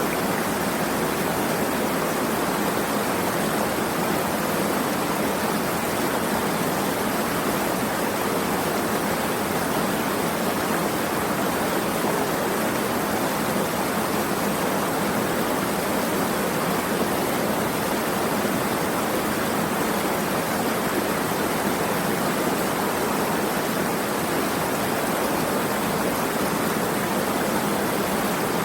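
Steady rushing water, an even wash of sound that never changes.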